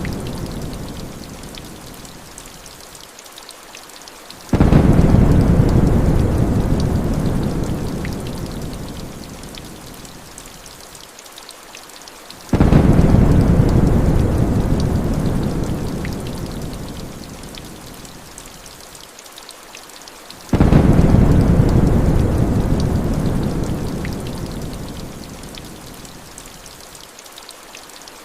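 Heavy rain hissing steadily, with a rumble of thunder breaking in suddenly three times, about every eight seconds, each one dying away over several seconds.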